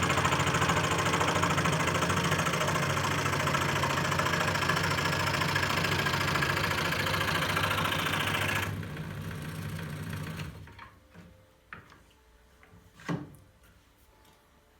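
Scroll saw running with its blade stroking rapidly, then falling off about nine seconds in and stopping altogether a second or two later. A few light knocks follow, one louder than the rest.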